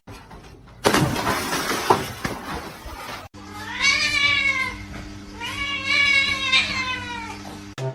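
A cat meowing twice, two long calls that rise and fall in pitch, over a steady low hum. Before the meows there are a couple of seconds of noisy clatter that cut off suddenly.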